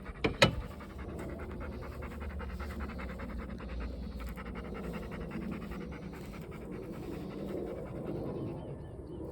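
Dog panting rapidly and steadily, out of breath after a walk. A couple of sharp clicks sound just under half a second in.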